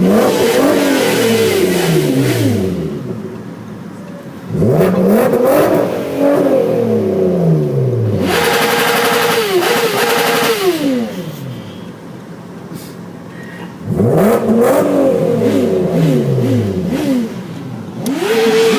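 A sport motorcycle's engine revved hard three times, each rev climbing and then dropping back towards idle. In the middle rev it is held at a steady high pitch for about three seconds.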